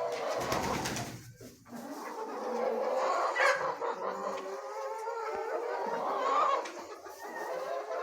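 A flock of chickens clucking and calling over one another, with a brief lull about one and a half seconds in.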